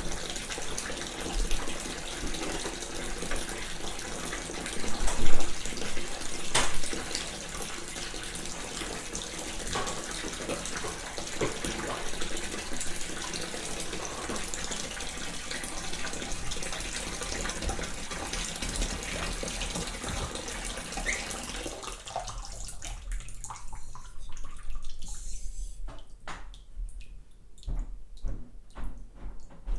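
Water running from a tap into a bathtub in a steady rush that dies away about 22 seconds in, as the flow is turned off, leaving a few scattered short clicks and knocks.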